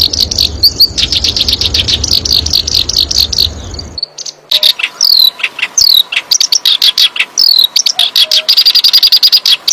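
Songbird song from a masteran (song-tutoring) recording: a fast run of evenly repeated high chirping notes, then, after an abrupt cut about four seconds in, a different song of quick downward-sliding whistles and rapid trills.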